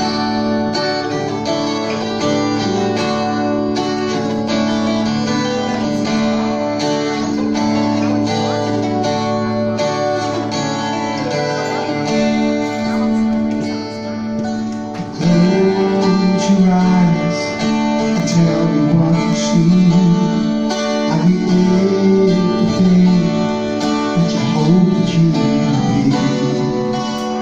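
Acoustic guitars strumming the instrumental intro of a live song. About halfway through the music gets louder as a gliding melody line joins over the chords.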